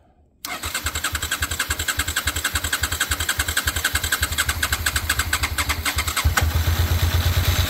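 Suzuki V-Strom motorcycle engine being started on the electric starter: it cranks with an even rapid chugging for about six seconds, then catches and settles into a steady idle. The bike has sat unused for a while and has new spark plugs.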